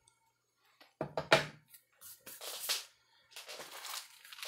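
Close-up chewing of a bite of a First Strike nutrition bar, in irregular bursts, then packaging rustling near the end.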